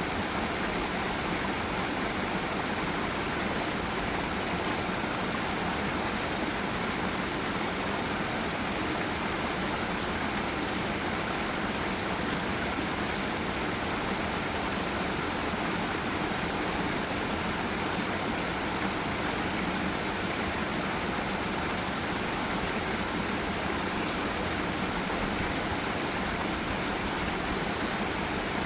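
Forest river and waterfall water rushing in a steady, unbroken hiss.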